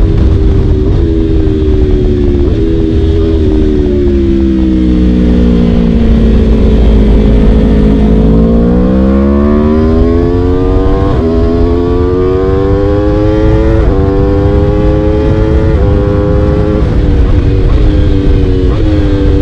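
Aprilia RSV4 V4 engine through an Akrapovic Shorty exhaust, ridden hard. It slows down over the first few seconds, the pitch jumping up with each downshift. Then it accelerates again, the pitch rising and dropping sharply at two upshifts about three seconds apart.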